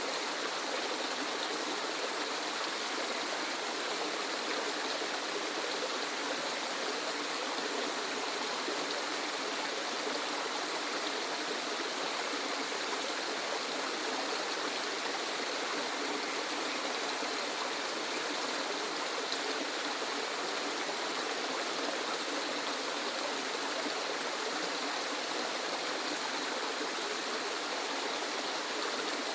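Waterfall: falling water rushing steadily in an even hiss with little deep rumble, unchanging throughout.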